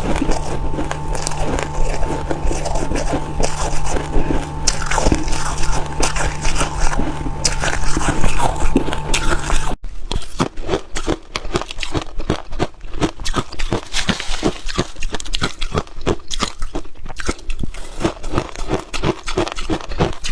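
Close-up biting and chewing of freezer frost, a dense run of crisp crunches. In the first half a steady hum runs underneath; it stops at an abrupt cut about halfway, after which the crunching goes on cleaner and more separated.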